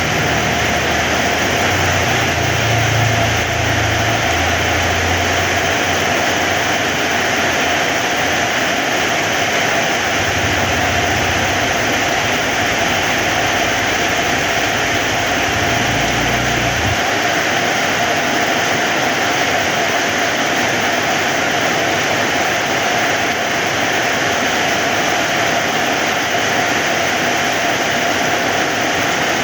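Heavy rain falling steadily, a dense even hiss of drops. A low rumble comes and goes under it during the first half and stops about seventeen seconds in.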